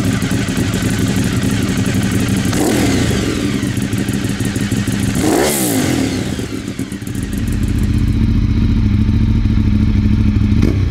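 Ducati 848's L-twin engine with the throttle blipped twice: a short rev about two and a half seconds in and a bigger one about five and a half seconds in, the pitch rising and falling each time. After about seven seconds a deeper, steady running sound takes over.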